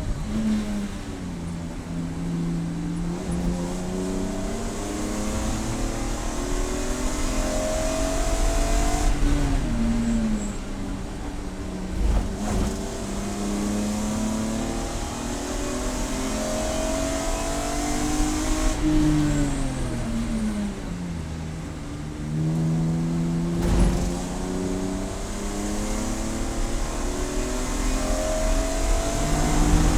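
Race car engine running hard under full throttle, its pitch climbing through the revs, then falling away as the driver lifts and brakes, three times over. Two sharp knocks come about a third and four-fifths of the way through.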